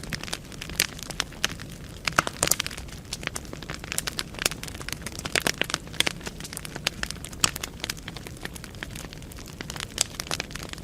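Wood fire burning in a fireplace, crackling and popping with many sharp, irregular snaps over a low steady rumble.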